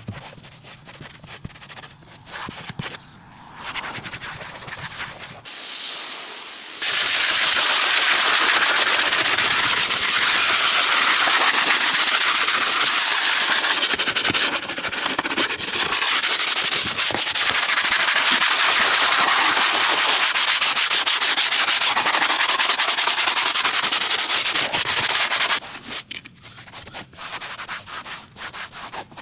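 Scrubbing and rubbing noises, then a detailing tool starts with a loud, steady hiss, runs for about twenty seconds and cuts off suddenly, followed by more scrubbing.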